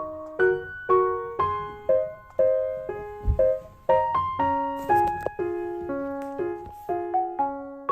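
Background piano music: a gentle melody of single notes and chords, about two a second, each ringing and fading.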